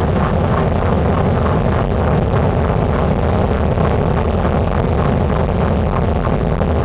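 Steady jet engine and airflow noise heard inside an airliner cabin during the approach to landing, a loud, even rumble with no distinct events.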